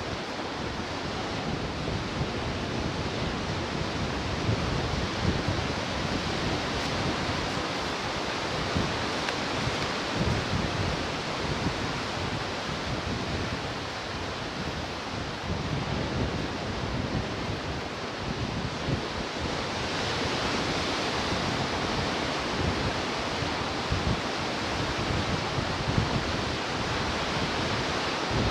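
Ocean waves breaking and washing onto the shore in a continuous rush that swells and eases every few seconds. The wash turns brighter and hissier about twenty seconds in.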